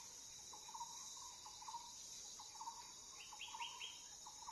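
Faint forest ambience: a steady high-pitched drone of insects such as crickets or cicadas, over which a bird gives short chirps repeated in quick runs, with a few higher chirps near the end.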